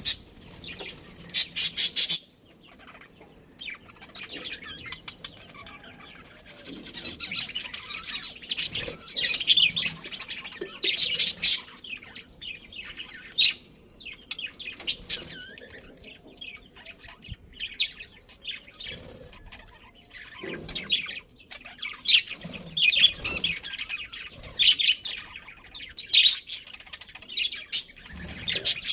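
A pair of budgerigars chirping and chattering in quick, high-pitched bursts, with quieter gaps between the bursts.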